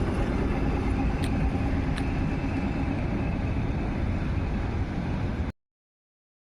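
ЭТ2М electric multiple unit running, a steady mechanical noise with a faint motor hum and two sharp clicks in the first two seconds. The sound cuts off abruptly about five and a half seconds in.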